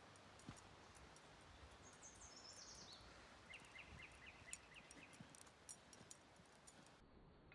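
Faint bird song over near-quiet air: a run of short high notes falling step by step in pitch about two seconds in, followed by a quick series of repeated lower notes.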